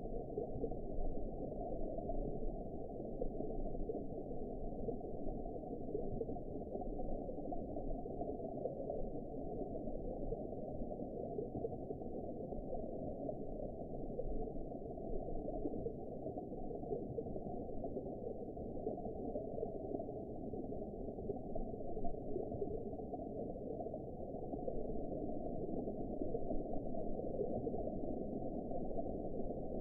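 Steady, muffled underwater ambience: an even low wash and rumble with nothing heard above about 1 kHz, unchanging throughout.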